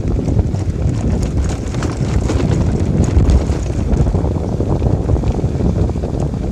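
Wind buffeting the microphone: a loud, rough, uneven rumble.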